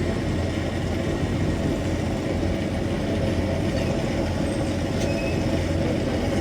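Steam-hauled train running along the track with a steady rumble.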